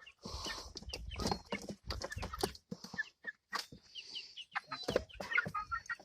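Hens clucking with many short calls, among scattered sharp taps and clicks, as the flock scrambles for pieces of bread. A low rumble runs under them from about one second in to about two and a half seconds.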